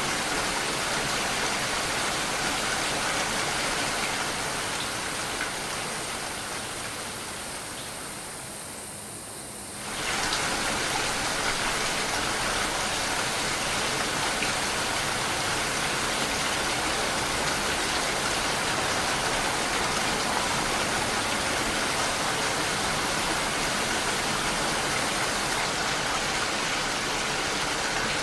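Steady rain, an even hiss of falling drops. About four seconds in it fades gradually quieter, then comes back suddenly at full level a few seconds later.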